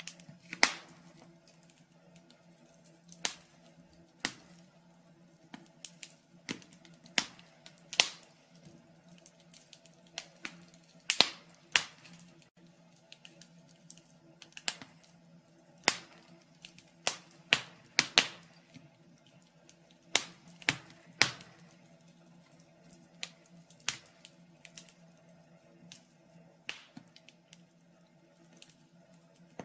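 Wood fire in a fireplace crackling, with irregular sharp pops coming every second or so, over a low steady hum.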